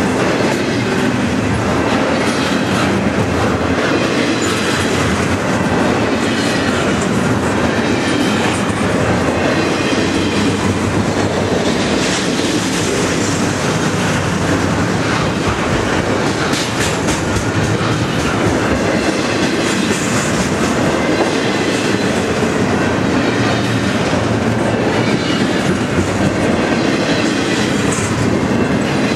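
Double-stack intermodal container well cars of a freight train rolling past close by: a loud, steady rumble of steel wheels on rail with the clickety-clack of wheels going over rail joints.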